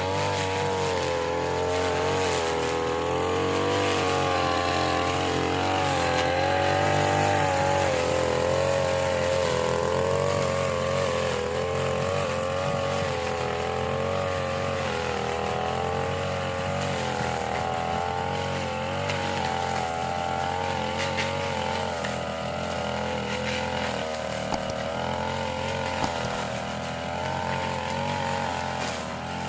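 Small petrol engine of a grass-cutting machine running continuously, its speed wavering up and down.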